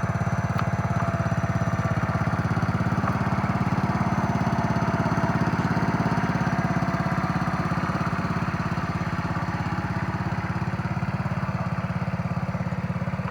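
Small engine of a ride-on backyard railway locomotive running steadily, with an even, fast pulse.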